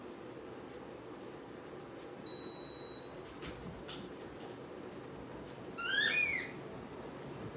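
Over a low steady hum, a single high electronic beep sounds for under a second, followed by a few light clicks. About six seconds in comes the loudest sound: a quick run of short rising chirps, each pitched higher than the last.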